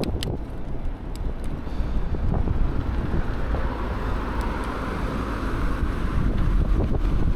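Wind buffeting the microphone of a rider on a moving bicycle: a steady low rumble, with a rushing hiss that swells from about two seconds in and fades again near six seconds.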